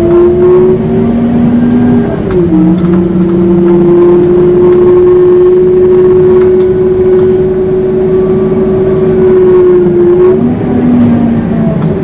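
Scania K230UB city bus's drivetrain howling under way, a loud steady whine. The whine dips briefly about two seconds in, then holds level and falls away near the end.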